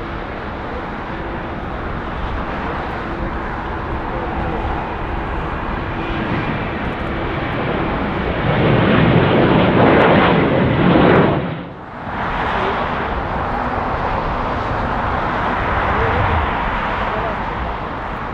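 Jet engine noise from a Boeing 787-10 airliner taxiing. The noise swells to its loudest as the plane passes close, then cuts off abruptly. After that, steady airport jet noise carries on.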